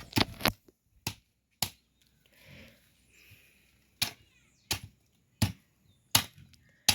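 Sharp, dry strikes of a blade chopping firewood: a few quick blows, a pause of about two seconds, then five more at a steady pace of a little under one per second.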